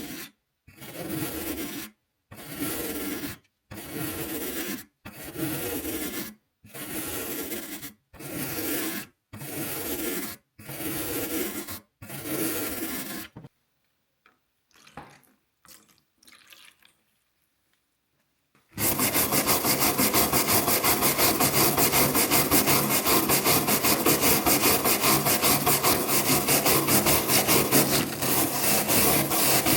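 Rust being scraped off an old iron horseshoe: about nine long rasping strokes, roughly one every second and a half. After a pause of a few seconds, a continuous fast, dense scraping follows.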